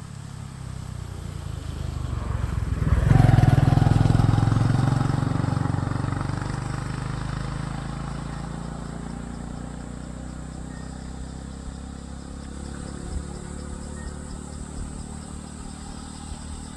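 A motor vehicle passing by: its engine grows louder to a peak about three seconds in, dropping slightly in pitch as it goes past, then slowly fades away. A thin, steady, high insect drone runs underneath.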